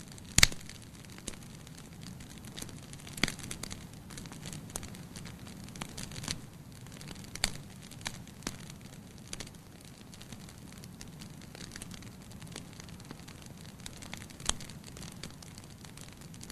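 Wood fire crackling in a fireplace: irregular sharp pops over a low steady rumble of the flames, the loudest pop about half a second in.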